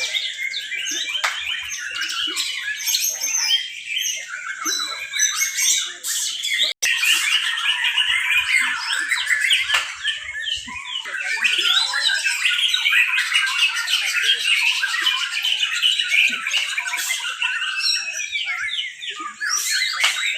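Several white-rumped shamas (murai batu) singing at once in competition: a dense, unbroken tangle of fast whistled phrases, chirps and trills. The sound cuts out for an instant about seven seconds in.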